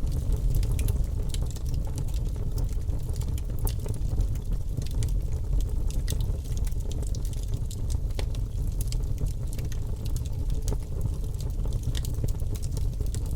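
Wood logs burning in a fireplace, crackling with many small sharp pops over a steady low rumble of the flames.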